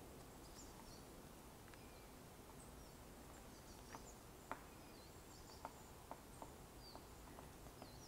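Quiet forest ambience: faint, thin, high calls of small birds come and go throughout, with a scattering of sharp little ticks or taps in the second half.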